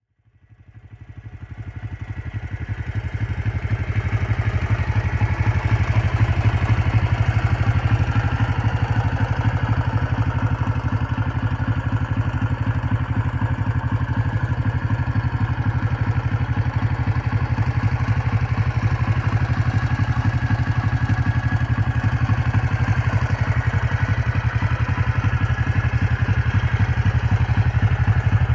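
A 1980 Honda CB125T's air-cooled four-stroke parallel-twin engine idling steadily with a low, even purr. The sound fades in over the first few seconds, then holds steady.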